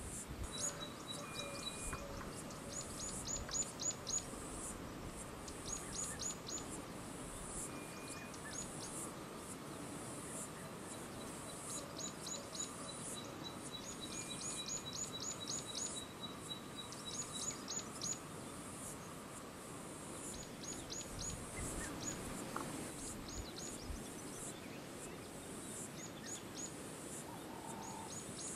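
Outdoor ambience: a bird calling in quick runs of short high notes, run after run, over a steady high hiss.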